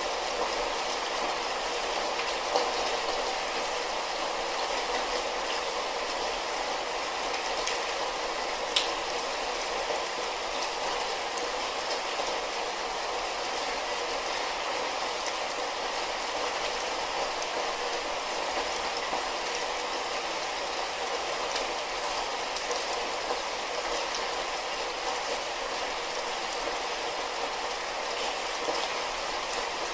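Light rain falling steadily, an even hiss with a few sharper drop ticks now and then.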